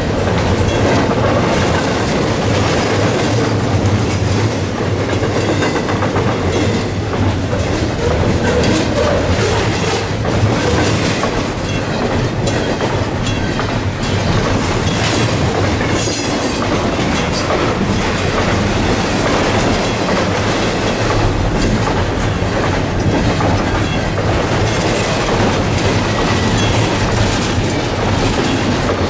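Double-stack intermodal freight train's steel wheels rolling past on the rails: a steady, loud rumble with many short clicks and knocks from the wheels crossing rail joints.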